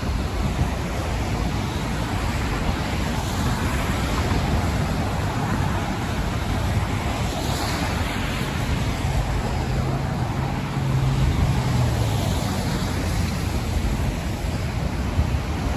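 Steady rush of road traffic with wind, and a heavier vehicle's low engine hum standing out for a few seconds in the middle.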